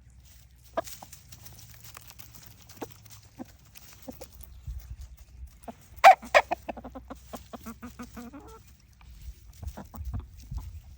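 Chickens clucking, with a loud call about six seconds in followed by a quick run of short clucks, over scattered sharp clicks.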